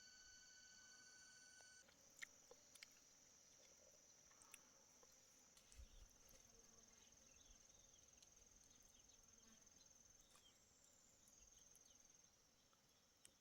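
Faint, steady high-pitched trilling of crickets or similar night insects. Near the start a separate steady pitched tone with overtones stops abruptly, and a few small clicks follow over the next few seconds.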